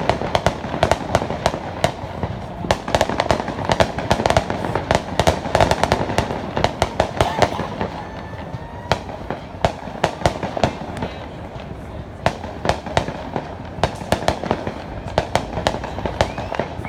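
Fireworks display: a dense, continuous run of sharp bangs and crackles, several a second, over a low rumble.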